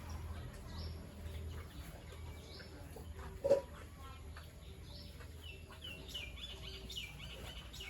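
Birds chirping in many short, high calls, thickest near the end, over a steady low hum, with one brief louder knock about three and a half seconds in.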